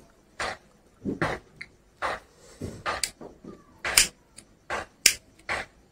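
Open-mouthed chewing and lip smacking while eating, with short wet smacks about twice a second and a few sharper clicks.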